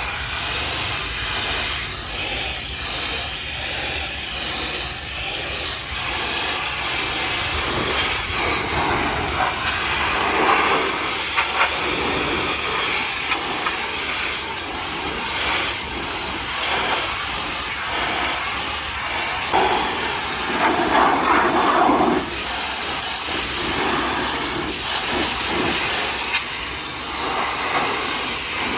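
High-pressure washer jet spraying water onto a mud-covered truck: a steady rushing hiss that shifts in pitch and loudness as the jet moves over the body, louder for stretches about ten and twenty seconds in.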